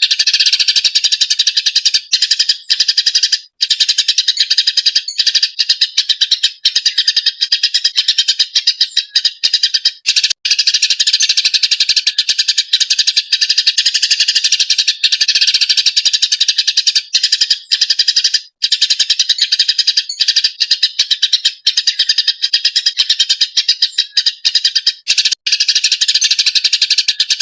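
Eurasian tree sparrow giving rapid, continuous, agitated chirping and chattering, with only a couple of brief pauses.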